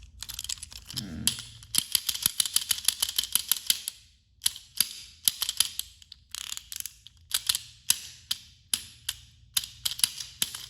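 Rapid plastic clicking and clattering from handling a battery-powered toy train engine while the battery is fitted and the engine is tried, coming in quick runs of clicks with short pauses between; the engine's motor does not run.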